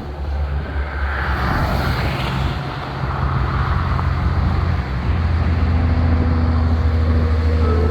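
Big-rig diesel engine running with a steady low drone over road and traffic noise, with a short rushing sound about a second in.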